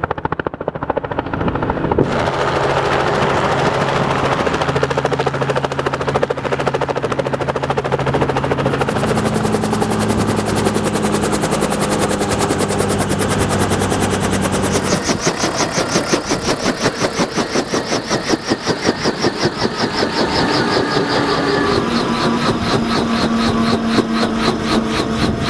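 Robinson R44 helicopter landing: rapid steady thudding of the main rotor blades over the drone of its piston engine. The engine's pitch shifts a couple of times, and the rotor thudding pulses more strongly in the second half.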